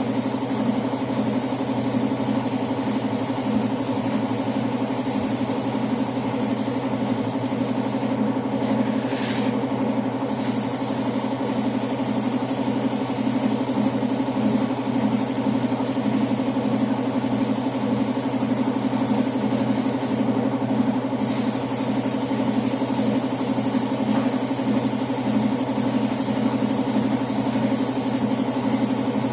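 Paint-shop air compressor running steadily with a high spray-gun hiss over it; the hiss stops briefly twice as the spray-gun trigger is let go, once about 8 seconds in and again about 20 seconds in.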